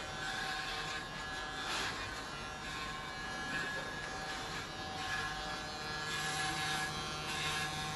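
Powertec TR-3900 electric hair clipper running with a steady buzz, with faint rises in hiss as it works through hair.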